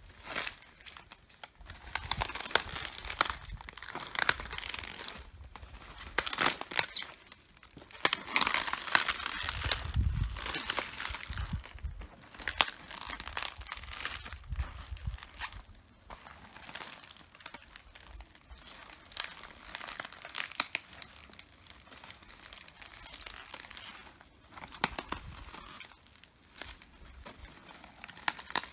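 Crisp red cabbage leaves crunching, cracking and tearing under footsteps, in irregular clusters. A dull low thud comes about ten seconds in.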